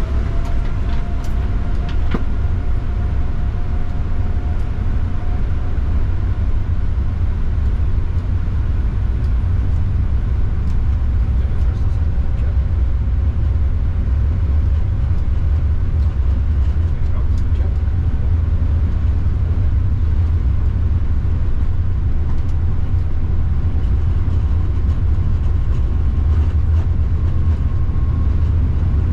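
Steady low rumble of airflow and air-conditioning on a Boeing 787-9 flight deck in climb, with a few faint tones drifting slowly in pitch above it.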